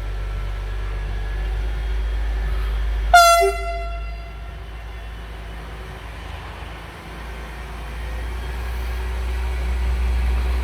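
Short, loud blast of the typhon air horn on a DPKr3 diesel multiple-unit train, about three seconds in, over a low rumble that grows louder near the end.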